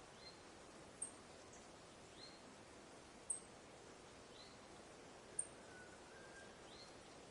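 Quiet forest ambience: a faint steady hiss with small animal calls over it, a very high short chirp repeating about every two seconds, alternating with a lower down-slurred note, and a couple of faint thin whistles about six seconds in.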